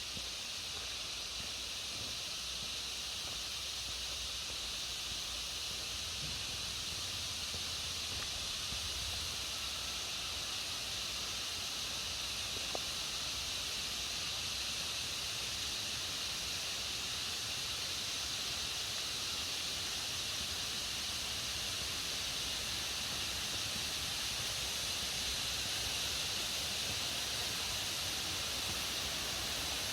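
Forest ambience: a steady high-pitched hiss with no breaks, growing slightly louder toward the end.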